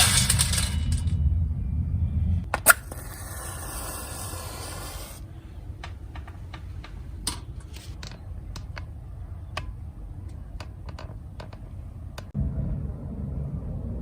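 Small hard objects clicking and clattering against metal: a short ringing rush, then a scattered run of single sharp clicks.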